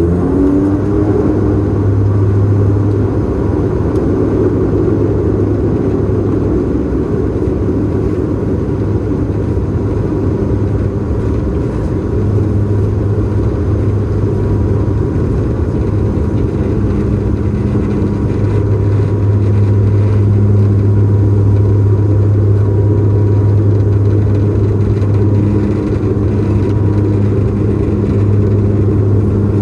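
Bombardier Dash 8-Q400's turboprop engines and propellers running, heard from inside the cabin. It is a steady low propeller drone with a thin steady whine above it, swelling slightly in level now and then.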